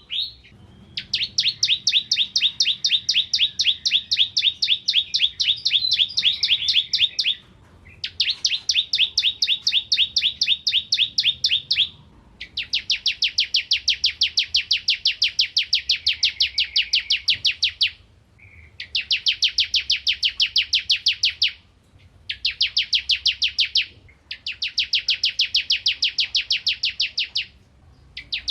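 Bar-winged prinia (ciblek kristal) singing energetically: long runs of rapid, evenly repeated high chipping notes, in bouts of a few seconds broken by short pauses.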